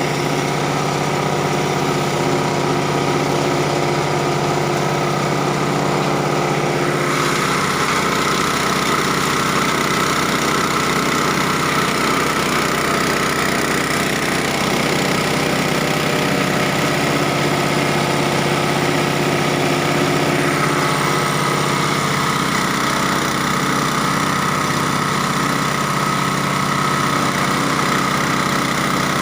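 Engine-driven cassava chopper and grinder running steadily. The sound turns harsher and brighter about a quarter of the way in, then eases back about two-thirds of the way through.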